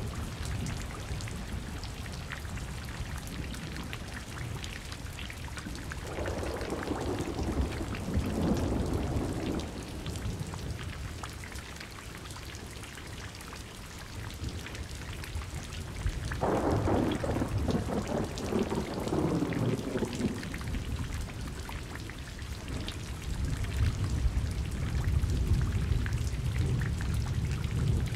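Steady rain pattering on a surface during a thunderstorm, with a low rumble underneath and two rolls of thunder swelling and fading, one about a quarter of the way in and a stronger one past the middle.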